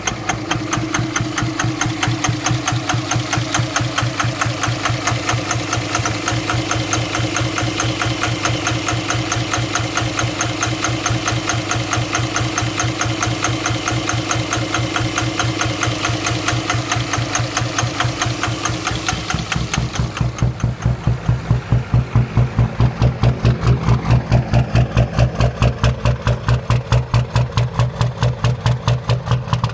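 24-valve Cummins inline-six diesel running with a misfire, which the owner suspects comes from bad injectors. It runs with a steady, even beat; about two-thirds of the way in the sound turns duller and the beat becomes stronger.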